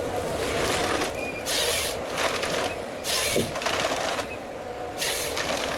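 Heavy forestry machine running steadily, with short bursts of hiss breaking in every second or two.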